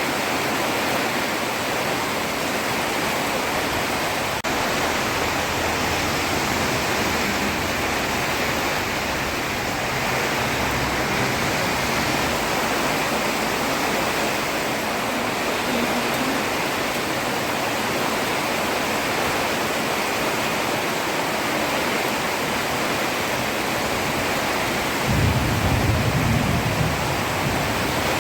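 Heavy rain falling steadily on a road, with a low rumble for about two seconds near the end.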